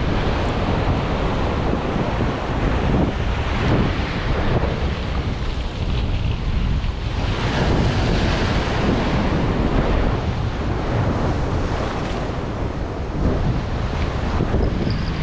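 Ocean surf breaking and washing in, swelling every few seconds, with wind buffeting the microphone.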